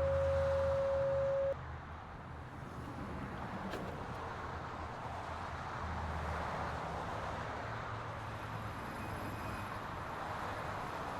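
Santiago Metro AS-02 train: a loud steady single-pitched tone for about a second and a half at the start, typical of the door-closing warning, then the carriage's low hum and rumble. About eight seconds in, thin high whines from the electric traction equipment come in as the train starts to move.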